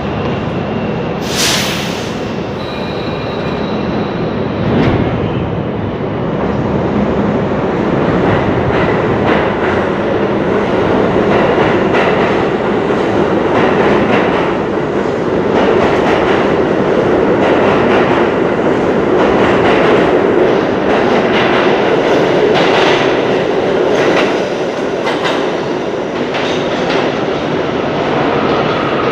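A train running on rails, its wheels clattering over the track with repeated sharp clicks and clanks over a steady rumble.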